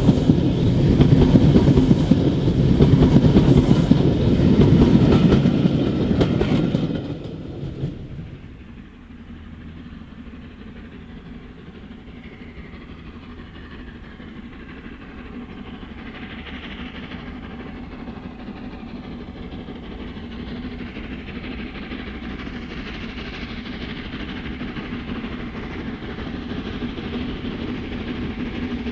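Sleeper coaches rolling past close by, a loud rumble with wheels clattering over the rail joints, which stops abruptly about seven seconds in. Then Peppercorn A2 three-cylinder Pacific steam locomotive 60532 'Blue Peter' working hard up a gradient in the distance, its sound faint at first and growing steadily louder as it approaches.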